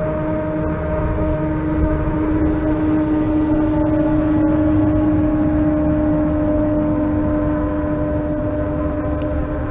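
RadRover fat-tire e-bike riding along: a steady humming whine that sinks slightly in pitch, over low wind rumble on the microphone.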